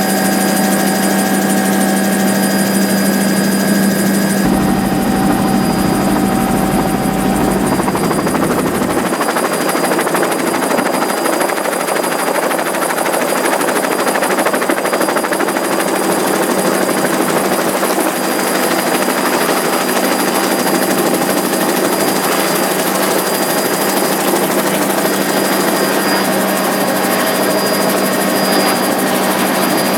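Helicopter in flight heard from inside its doors-off cabin: a loud, steady drone of engine and rotor with a strong low hum, under heavy rushing wind noise.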